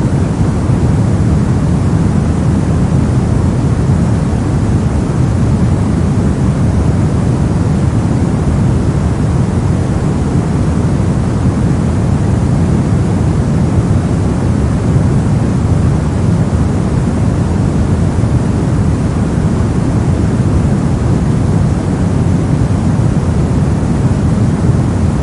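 Brown noise: a steady, unchanging rumbling hiss, loudest in the low range and dulled in the highs, with no rhythm or events.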